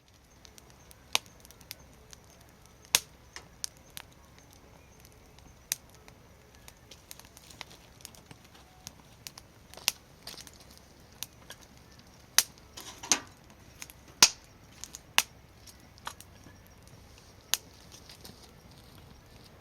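Wood fire crackling, with sharp, irregular pops over a faint steady hiss; the loudest pops come about twelve to fourteen seconds in.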